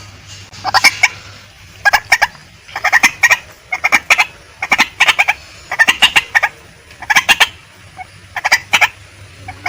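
Female white-breasted waterhen calling: short, harsh bursts of quick repeated notes, about one burst a second.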